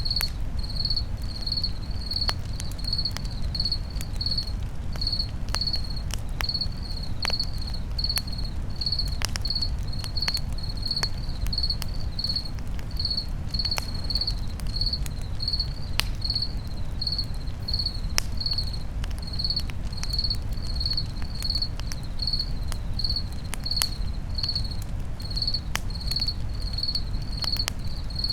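A cricket chirping steadily, about two high chirps a second, over a crackling campfire with scattered sharp pops and a low steady rumble.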